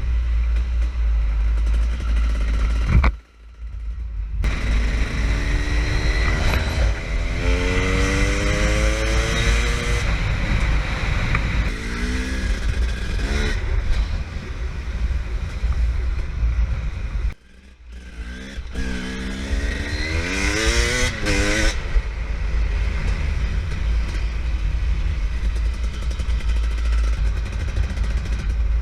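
KTM EXC 300 single-cylinder two-stroke engine revving as the dirt bike accelerates, its pitch climbing in two long runs, over a steady low rumble. The sound drops away sharply for a moment twice, once a few seconds in and once just past the middle.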